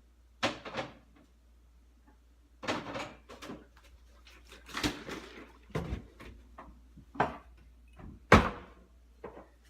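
Kitchen handling sounds as food and containers are put away: a series of short knocks, rustles and clunks, much like doors and cupboards being shut, the loudest a sharp knock about eight seconds in.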